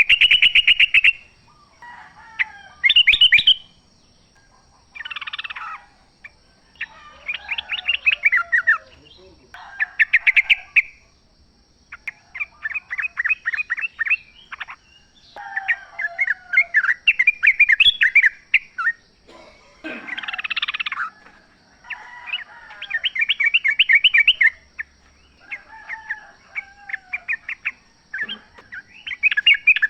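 Yellow-vented bulbuls (trucukan) singing: repeated bursts of rapid chattering notes, each a second or two long, with short pauses between.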